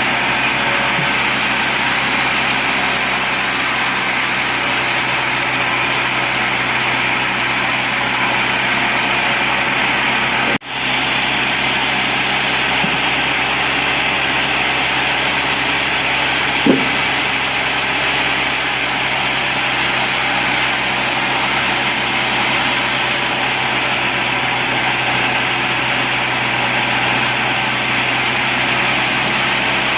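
Sawmill bandsaw running steadily as it saws teak, a constant machine drone with a high hiss. The sound breaks off for an instant about ten seconds in, and a single short knock comes a few seconds later.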